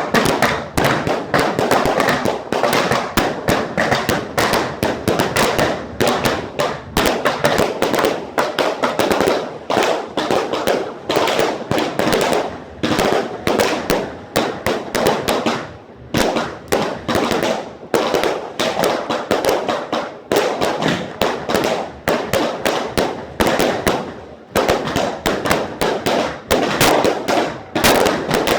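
A dense, continuous barrage of cracks and bangs from celebratory fireworks and gunfire, many reports a second with only brief lulls.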